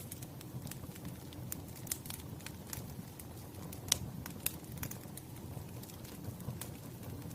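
Wood fire crackling: irregular sharp pops and snaps over a low, steady rumble of flame, with the loudest pop about four seconds in.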